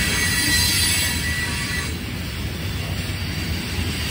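Train rolling past: a steady rumble of wheels on rail, with faint high steady tones in the first half, dropping a little in level about two seconds in.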